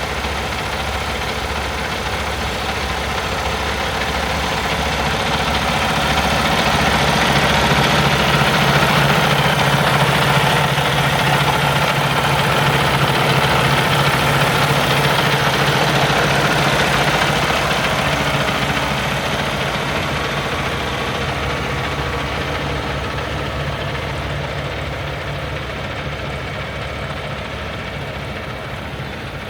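The Cummins X15 diesel of a Peterbilt 567 dump truck idling steadily. It grows louder toward the middle and then slowly fades.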